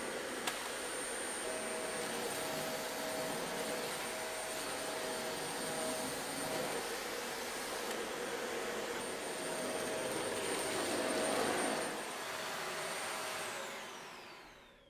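Dyson Ball Animal 2 upright vacuum cleaner running with a steady rushing sound and a high motor whine. Near the end it is switched off and the whine falls away as the motor spins down.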